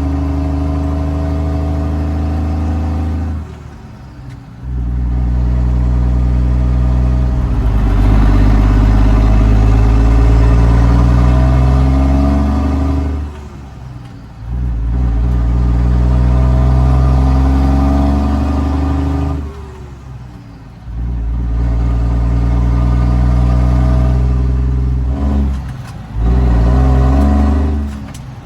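Straight-piped Cummins L10 turbo diesel in a Ford L9000 dump truck pulling up through the gears. The engine pitch climbs steadily in each gear, then drops off briefly about four times as it shifts and picks up again lower.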